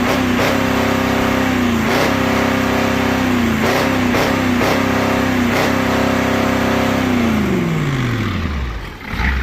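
Ford 6.9 IDI naturally aspirated diesel V8 running at high revs, held near its governed speed with several brief dips. About seven seconds in the revs fall away steadily, and the engine winds down to a stop near the end.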